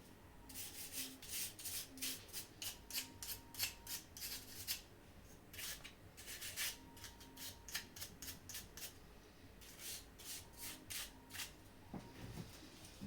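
Quick rubbing or scrubbing strokes by hand, about three to four a second, in runs broken by brief pauses.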